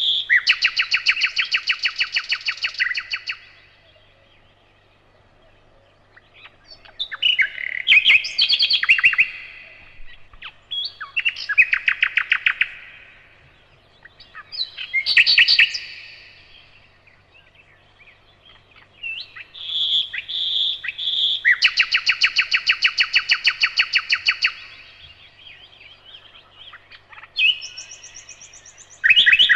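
A nightingale singing: loud song phrases separated by pauses of a few seconds, many built from fast runs of repeated notes, each phrase different from the last.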